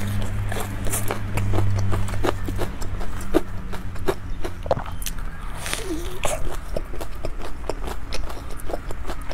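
Close-miked chewing of a deep-fried, crumb-coated curry bread: an irregular run of short crunches and wet mouth clicks. A low steady hum sits underneath for the first two and a half seconds.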